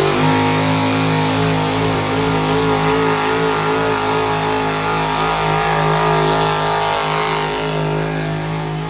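Engine of a pulling vehicle at full throttle under load during a pull. It is loud and holds one steady pitch, easing off a little near the end.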